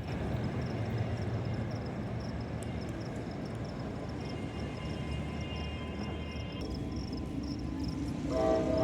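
Diesel train running with a steady rumble, hauled by a General Electric locomotive; near the end the locomotive's horn starts to sound.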